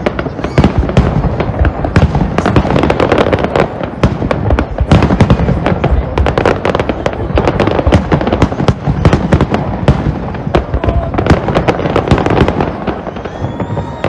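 Aerial fireworks display: a dense, rapid barrage of bangs and crackles from bursting shells, several a second without a break.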